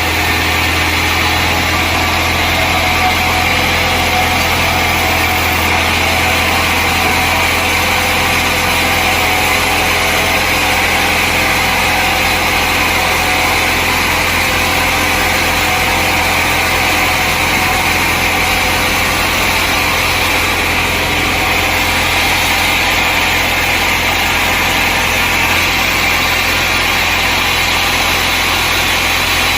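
Sawmill machinery running steadily with a loud, constant engine-like drone and no break or change.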